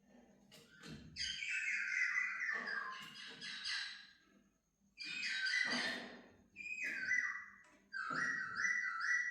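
Laughingthrush singing: four phrases of quick, stepped notes, with short pauses between them.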